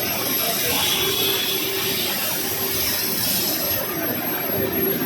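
Steady factory-floor machinery noise in a tractor assembly plant: a continuous hiss with a thin, steady high whine running through it.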